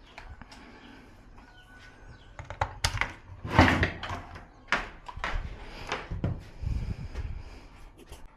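Tools and parts being handled on a workbench during wire stripping and soldering prep: scattered clicks, knocks and rattles, the loudest cluster about three to four seconds in.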